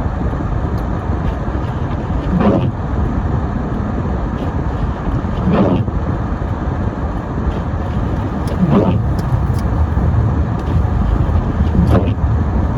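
A car driving on a snowy road, heard from inside the car: a steady rumble of road and engine. A short squeaky sweep comes about every three seconds, typical of windshield wipers running across the glass.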